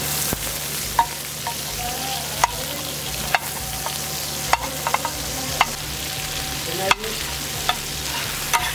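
Mutton brain and mutton tikka frying in desi ghee on a large flat tawa: a steady sizzle, with the spatula clacking against the tawa about once a second as it stirs and breaks up the meat.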